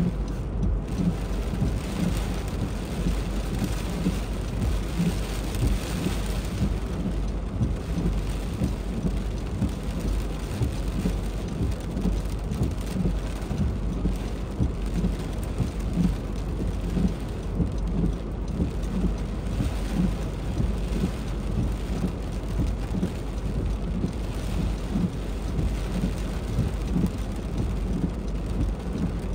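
Heavy rain pouring steadily, dense drops drumming on a nearby surface, with a constant low rumble underneath.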